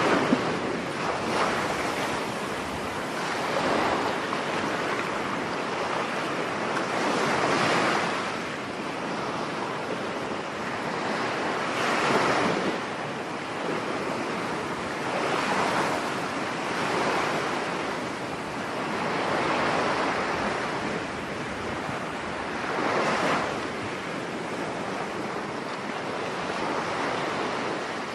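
Rough sea surf breaking on a beach in stormy weather, swelling and falling back every three to four seconds, with wind blowing across the microphone.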